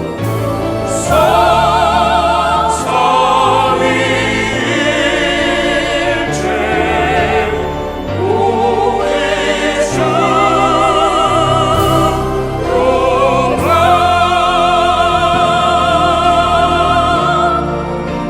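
Church choir singing a hymn in long held chords with vibrato, over sustained low accompaniment, pausing briefly between phrases every few seconds.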